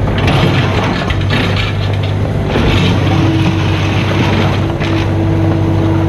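Mini excavator's diesel engine running under load with a low, steady hum. A steady higher whine joins about three seconds in, over scraping and clattering from the work.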